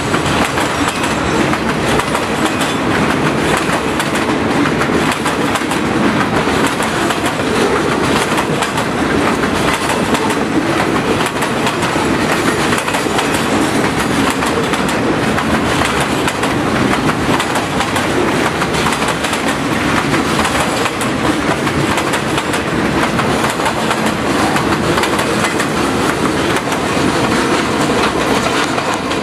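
Freight train boxcars rolling past close by: a loud, steady rumble of steel wheels on the rails, with the clickety-clack of the wheels going over the rail joints.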